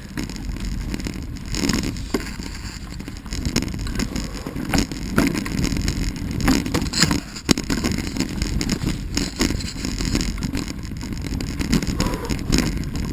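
Wheels rolling over a root-strewn dirt trail with a steady low rumble. Frequent sharp knocks and rattles come as the ride bumps over roots.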